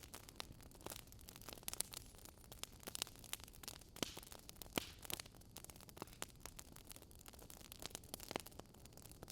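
Burning wood logs crackling: irregular sharp pops and snaps, several a second, over a soft steady hiss of the flames.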